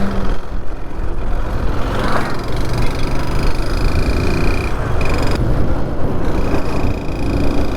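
Motorcycle on the move: wind buffeting the microphone over the running engine. A thin, steady high tone comes and goes in the second half.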